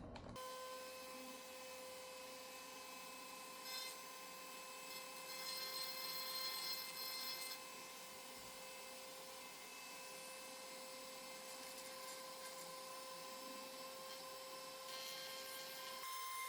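Dremel rotary tool running with a steady high whine, its sanding tip rubbing against wood to smooth the edges, with a louder stretch of grinding about six seconds in.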